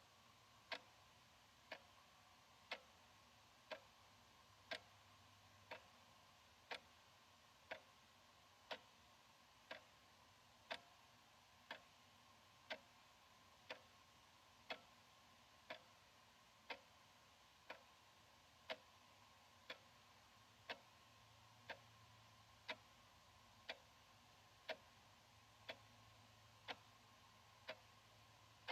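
Analog wall clock ticking about once a second, in an even tick-tock with alternate ticks slightly louder.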